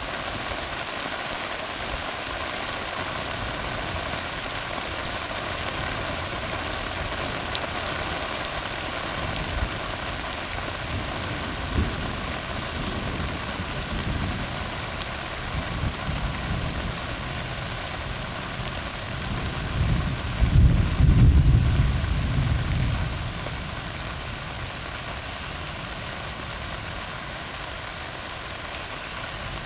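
Steady rain falling on a tar road, an even hiss. From about the middle a low rumble of thunder rolls in, swells to its loudest about two-thirds of the way through, then dies away.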